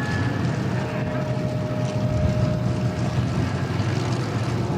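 Race car engine running at a steady low idle, a continuous deep drone.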